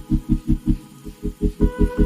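Background music: a fast, pulsing bass beat of about five thumps a second under sustained synth chords, changing chord about a second and a half in.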